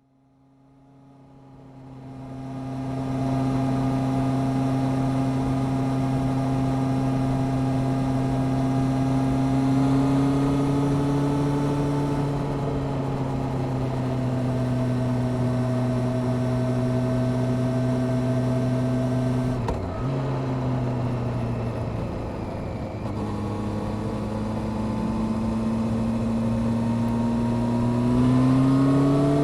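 Honda CBR600F Sport's inline-four engine running at a steady cruising note, fading in over the first few seconds. A brief break about two-thirds in is followed by a lower note, like an upshift, and the revs climb again near the end.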